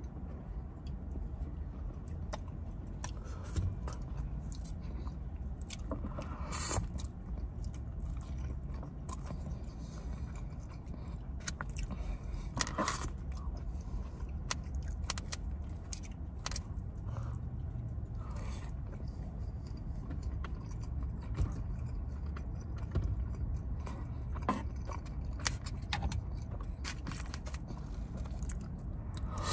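Close-up chewing and mouth sounds of someone eating noodles and glazed pork, with wooden chopsticks clicking and scraping against a foam takeout container, over a steady low hum.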